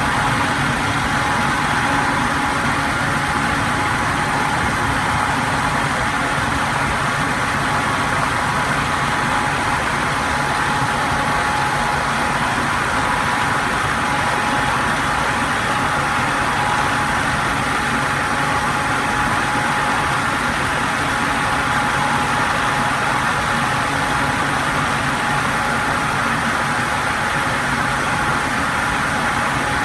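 Electric fan running steadily: an even, unchanging rush of air with a thin constant tone and a low motor hum in it.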